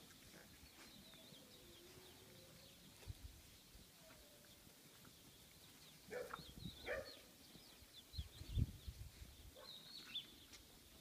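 Faint small birds chirping in the background, with two short squeaks about six and seven seconds in and a few low thumps around eight and a half seconds.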